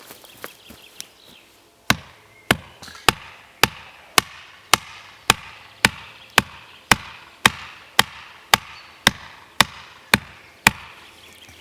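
A steady series of about seventeen sharp knocks, a little under two a second, starting about two seconds in, each with a short ringing tail.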